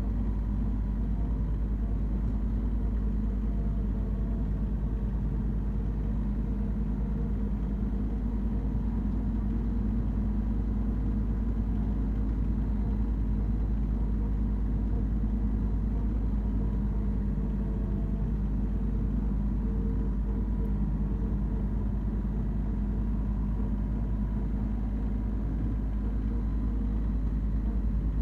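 Branson 3520R compact tractor's diesel engine running at a steady, constant speed while mowing.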